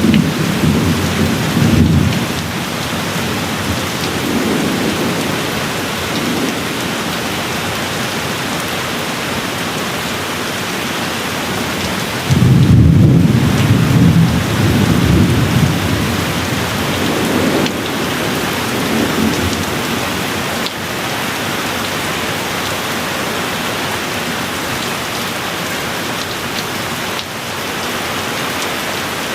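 Steady rain falling, with thunder rumbling. A rumble dies away in the first couple of seconds. About twelve seconds in, a louder rumble sets in suddenly and lingers for a few seconds, and a weaker one follows a few seconds later.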